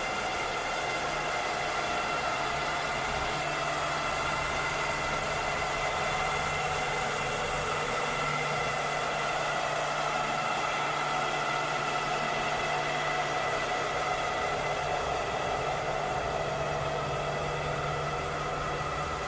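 Cleaning robot's motor running steadily: an even whir with a high whine over a low hum, unchanging throughout.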